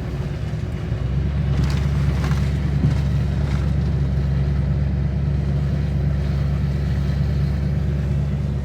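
Truck engine and road noise heard from inside the cab while driving: a steady low drone that grows stronger about a second in.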